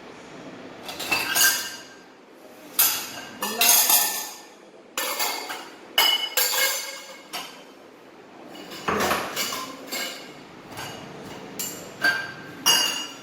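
Dishes, pots and cutlery clinking and clattering as they are handled and set down: a string of separate knocks, several with a ringing metallic tail.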